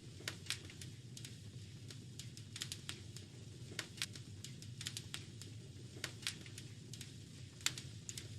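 Wood fire crackling in a fireplace: irregular sharp pops and snaps over a steady low rumble, the loudest pop coming near the end.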